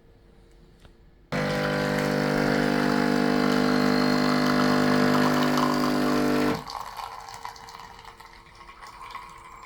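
Philips L'OR Barista Sublime capsule coffee machine's pump humming loudly for about five seconds as it brews a small shot. It starts suddenly and cuts off, and faint trickling follows.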